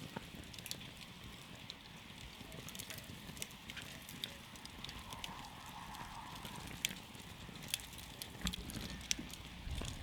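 Wood campfire burning and crackling, with scattered sharp pops, several of the loudest coming in the second half.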